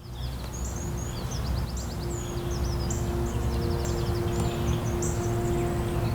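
Birds chirping, with short repeated notes and quick trills, over a low rumble and a steady low hum.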